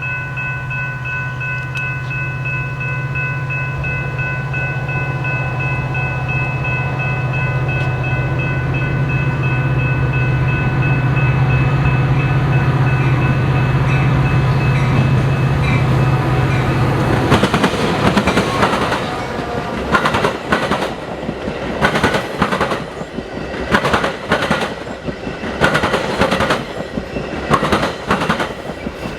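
A passing train: for the first two-thirds, a diesel locomotive's engine drone with a steady high whine over it. Then the drone drops away, and the cars clatter by with sharp wheel knocks over the rail joints.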